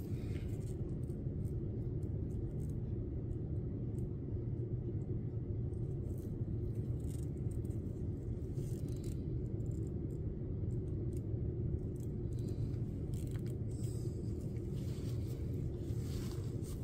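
Steady low background rumble with a few faint light clicks scattered through it.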